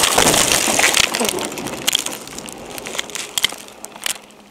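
Vehicle crash: loud crunching and scraping of a collision that fades over about three seconds, with a few sharp cracks of breaking debris near the end.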